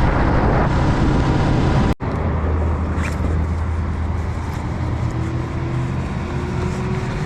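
Motorcycle engine running steadily under way, under a constant rush of wind and road noise. The sound drops out for an instant about two seconds in.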